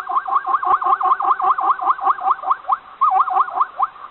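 Zebra calling: a fast run of high, yelping barks, about six a second, with a short break about three seconds in.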